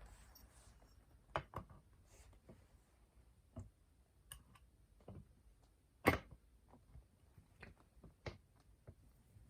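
Scattered light clicks and knocks of small metal parts and tools being handled on the chainsaw, irregular, with the sharpest knock about six seconds in.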